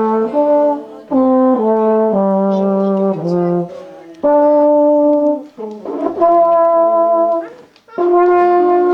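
A brass instrument played solo, flowery: a melody of held notes in several phrases with short breaks between them, closing on a long held note.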